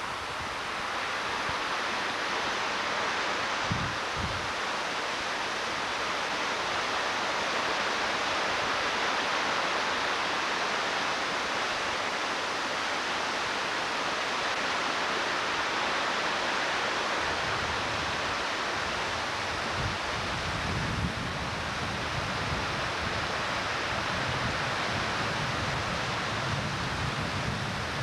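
Floodwater in a flooding creek rushing by in a steady, even wash of noise. A low rumbling joins in over the second half, and there is a brief thump a few seconds in.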